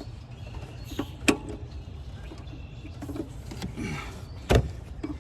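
Hand tools clinking and scraping on metal as a wrench works at a stuck nut, with short creaks. There are two sharp metallic knocks, about a second in and the loudest one near the end.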